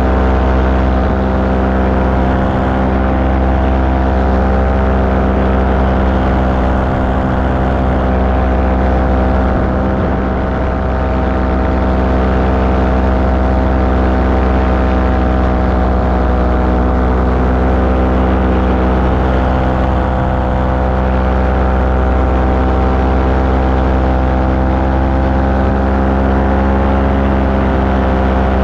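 Light aircraft engine and propeller running steadily in flight. It makes a loud, even drone at constant power.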